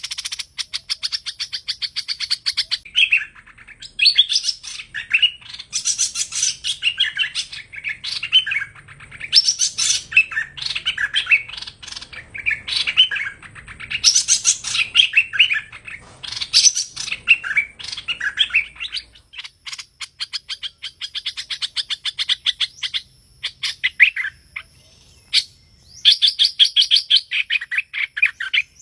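Song of the bird known in Vietnam as hoành hoạch, used as a trapping lure: rapid trains of high chirps and trills repeating almost without pause, thinning out for a few seconds past the middle before starting up strongly again near the end.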